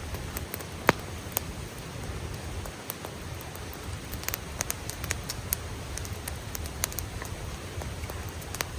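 Campfire crackling: irregular sharp pops and snaps, the loudest about a second in, over a steady low rushing noise.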